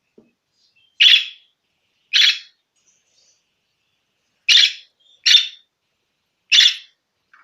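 Budgerigar giving five loud, short calls, each about a third of a second long and a second or so apart, with a pair close together past the middle.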